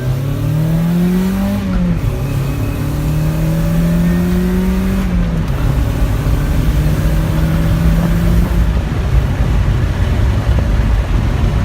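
Mazda Miata's four-cylinder engine, on a freshly fitted downpipe, accelerating hard through the gears. The engine note climbs, drops sharply at upshifts about two seconds and five seconds in, then holds fairly steady, over a heavy exhaust rumble and road noise.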